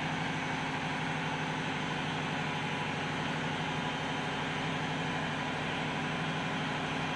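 Steady drone of running engine-room machinery, an engine and its auxiliaries, holding one even pitch throughout.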